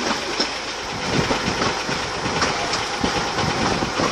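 15-inch-gauge light railway train running along the track, heard from the carriage: a steady rumble with irregular knocks and clicks of the wheels over the rail joints, a little louder from about a second in.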